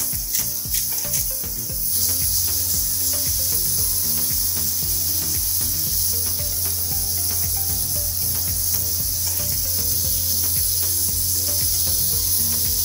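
Minced meat frying in a pan: a steady sizzling hiss that sets in about two seconds in. Before it, quick scraping and tapping as the mince is broken up in the pan.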